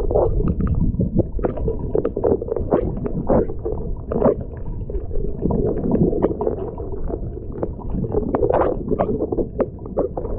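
Strong blizzard wind buffeting the microphone: a loud, gusty low rumble with frequent crackles.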